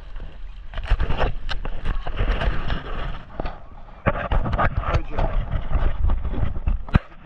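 Wind buffeting the microphone, with water slapping and splashing against the hulls of a Hobie Cat catamaran under sail, broken by irregular sharp knocks.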